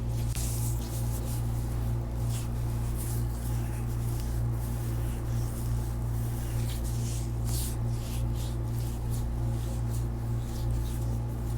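Hands massaging a bare foot, picked up close by wrist microphones: irregular soft swishes of skin rubbing on skin, over a steady low hum.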